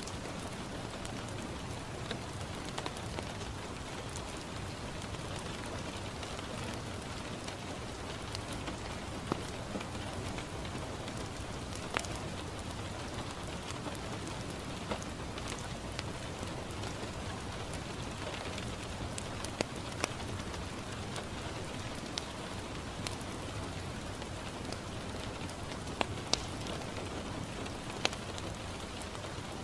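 Steady rain falling on a window, with a scattering of single sharp pops from a crackling wood fire in a fireplace.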